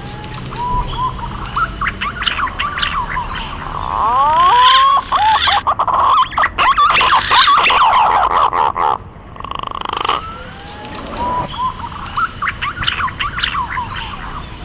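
Green pigeons (punai) giving whistling, gliding calls, several birds at once: scattered calls at first, then a louder stretch of many overlapping calls through the middle, thinning out again near the end. It is a lure call used to draw punai in for hunting.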